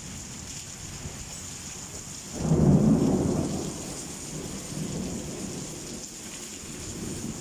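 Rain falling steadily during a summer thunderstorm, with a roll of thunder starting suddenly about two seconds in, loudest for about a second, then rumbling away.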